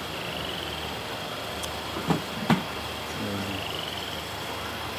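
Two sharp knocks about half a second apart, the second the louder, over a steady background hum. A faint, rapid, high chirping trill comes twice.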